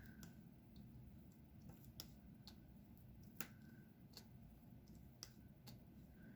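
Faint, irregular small clicks, one or two a second, from a diamond painting pen setting resin drills onto the sticky canvas; the sharpest comes about halfway through.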